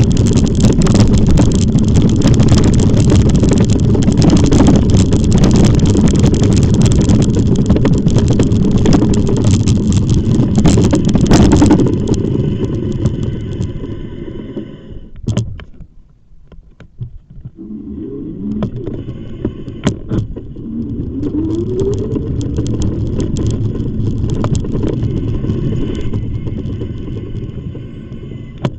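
Wind buffeting the microphone of a moving e-bike's camera, loud and rumbling, dropping away suddenly about twelve seconds in to a brief quiet spell. Softer riding noise then returns with a few rising whines.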